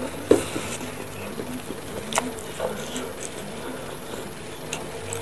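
Chewing mouth sounds while eating a spicy bakso urat (beef tendon meatball): soft wet smacks and clicks, the loudest about a third of a second in and two more around two seconds in.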